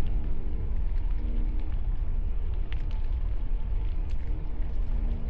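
Strong wind buffeting a helmet-mounted action-camera microphone during a bike ride: a steady low rumble, with a few small ticks.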